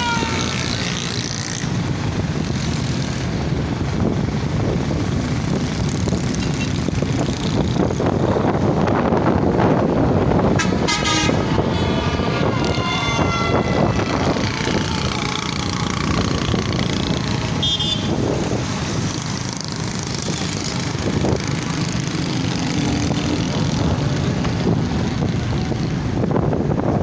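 Busy road traffic heard from a moving motorbike, a steady rumble of engines and road noise, with vehicle horns honking several times, loudest about eleven seconds in.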